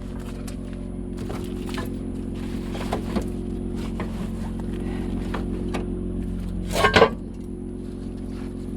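A vehicle engine idling steadily while recovery gear is tossed into a storage box, with scattered clinks and knocks and a louder clatter about seven seconds in.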